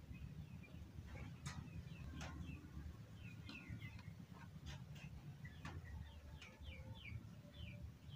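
Small birds chirping in the background: clusters of short, quick, downward chirps. There are a few faint clicks and a low rumble underneath.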